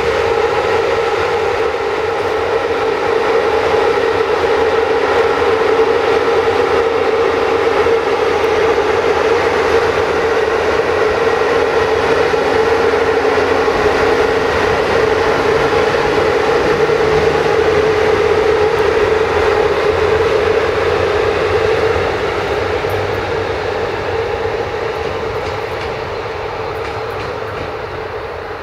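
Train moving through the station, with a steady loud hum over a low rumble; it fades away over the last few seconds.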